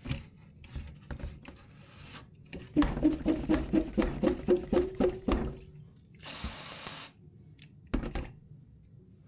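Algae-remover concentrate glugging from its bottle as it is poured for dilution, in rapid pulses for about two and a half seconds. A short hiss follows about six seconds in, with a couple of knocks near the end.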